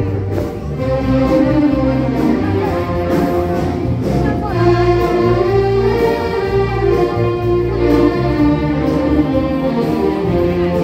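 Band music playing, with a held melody over a steady bass.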